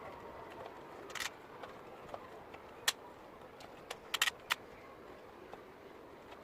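Scattered sharp clicks and light metallic knocks of small metal parts and tools being handled: one a little past a second in, a sharp one near three seconds, and a quick cluster of three or four just after four seconds.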